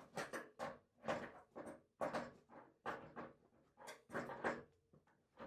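Spanner work on the compression nuts of a newly fitted thermostatic radiator valve: a string of short metal clicks and knocks, about two a second, as the nuts are pinched up.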